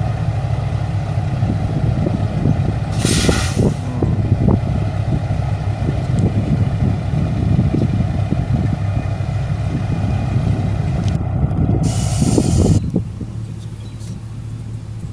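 Semi truck diesel engine running, with a short burst of air hissing from the air brakes about three seconds in and a longer hiss near the end. Right after the second hiss the engine sound drops to a quieter level.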